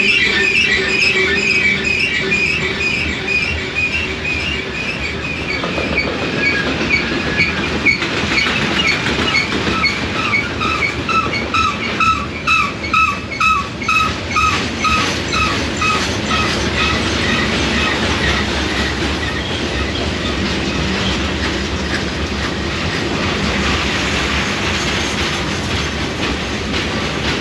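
A train rolling past with a steady rumble, its wheels beating out a rhythmic clickety-clack of about three to four pulses a second, with high-pitched wheel squeal.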